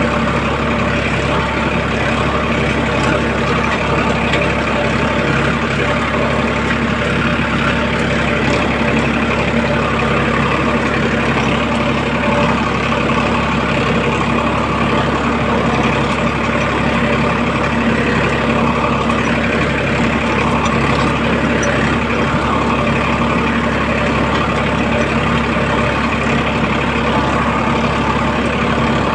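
Farmtrac tractor's diesel engine running steadily under load while ploughing a field, a constant even drone with no change in speed.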